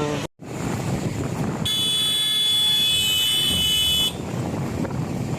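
A vehicle horn sounding one steady, high-pitched blast of about two and a half seconds, over roadside noise and wind on the microphone.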